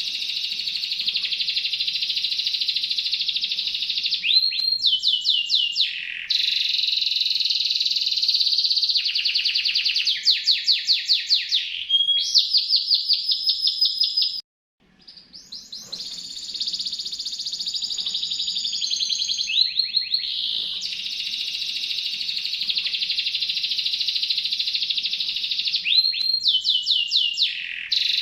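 Domestic canary singing a long, continuous song of rapid trills, switching from one trill to another every few seconds, with a short break about fourteen seconds in.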